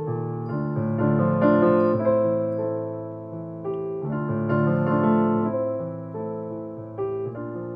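Piano played slowly, chords with a melody on top, each struck chord left to ring and fade before the next.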